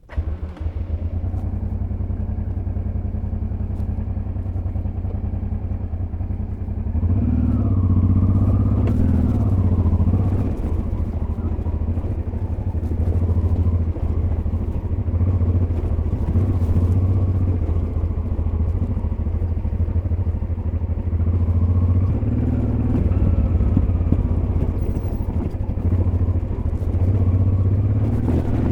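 Honda Transalp XL600V V-twin engine running as the motorcycle rides along a dirt road. It gets louder about a quarter of the way in, the engine pitch rising and falling briefly as it picks up speed, then runs steadily with small ups and downs in revs.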